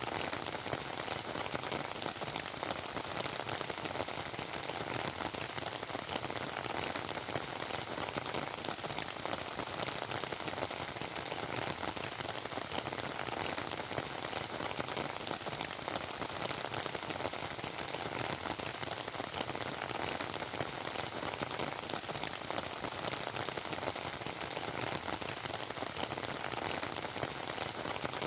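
Steady rain falling, a dense, even hiss of many small drop impacts that holds at the same level throughout.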